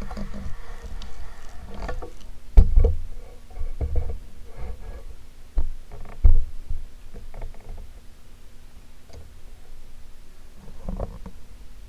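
Patton industrial ceiling fan humming steadily, with irregular low thumps and knocks, the loudest two about two and a half and six seconds in.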